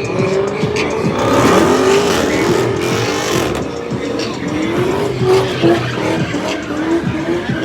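A car's engine revving hard, its pitch rising and falling repeatedly, while the tyres squeal and skid in a burnout or donuts.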